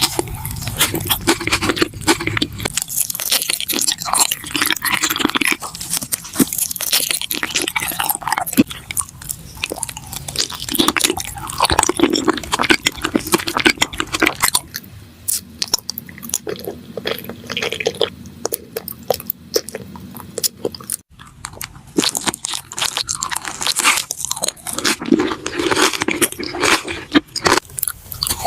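Close-miked eating sounds: crisp crunching bites and chewing, a dense run of crackles and clicks.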